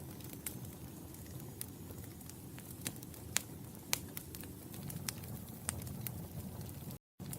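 Wood fire in a fireplace crackling: irregular sharp pops and snaps, a few louder ones around the middle, over a steady low rumble of the flames. The sound cuts out completely for a moment near the end.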